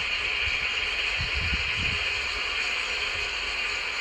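Steady hiss with a few low thuds in the first half.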